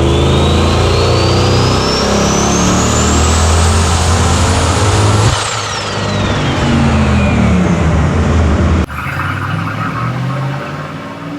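Twin-turbocharged GMC 1500 pickup engine at full throttle on a chassis dyno, with a high whine climbing steadily for about five seconds. A little over five seconds in the level dips and the whine falls away while the engine keeps running hard. Near the end it drops abruptly to a quieter running sound.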